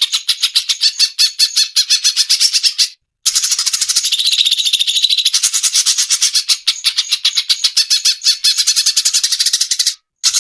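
Recorded cucak cungkok song: a fast, dry chattering run of many short notes, high-pitched, broken by a short pause about three seconds in and again near the end. A masteran track, played so that cage songbirds copy the call.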